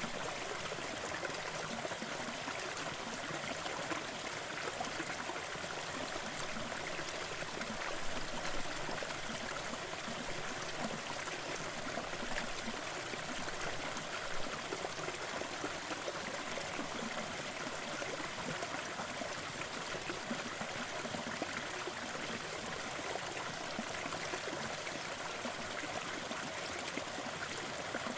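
Waterfall and its stream flowing: a steady, even rush of falling and running water.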